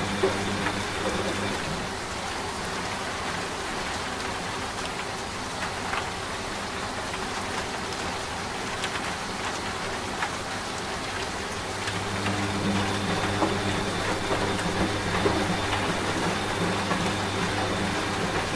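Steady rain with scattered drops, together with a washing machine's low motor hum. The hum drops away a second or two in and comes back, louder, about two-thirds of the way through.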